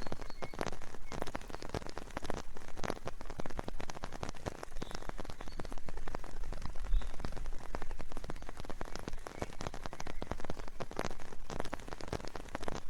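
Steady spring rain falling in a forest, a dense run of individual raindrops hitting close by.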